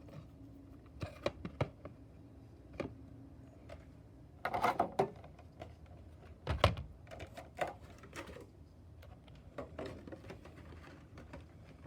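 Irregular small clicks, taps and rattles of a packaged diecast toy car and its plastic packaging being handled, with a louder burst of handling about four and a half seconds in and a sharp knock a couple of seconds later.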